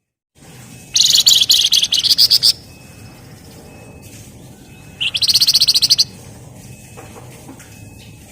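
Flamboyan (wergan Jawa) songbird singing its dense rattling trill ('ngebren rapat') twice, a loud run of very fast repeated high notes. The first lasts about a second and a half, and the second, about four seconds in, about a second. Faint short peeps come between them.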